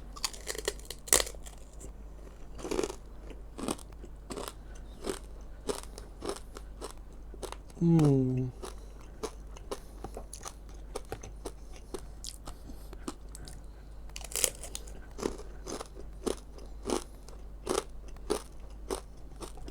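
Crunching and chewing of crispy fried fish skin snack (salted egg and cheese flavour) close to the microphone, a quick irregular run of sharp crackly crunches. About eight seconds in, a short, loud vocal sound falls in pitch.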